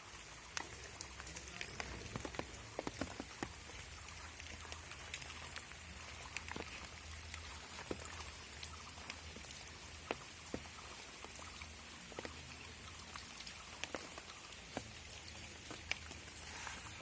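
Steady rain falling, with many individual drops tapping sharply and irregularly close by.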